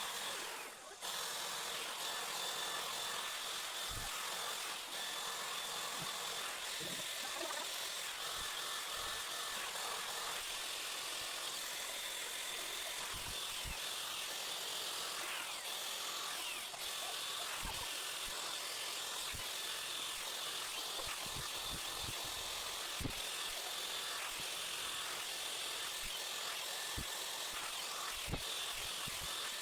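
Cecotec RitualCare Lisse hair dryer-straightener blowing hot air steadily, its small motor fan giving a high whine over the rush of air, with a few faint knocks.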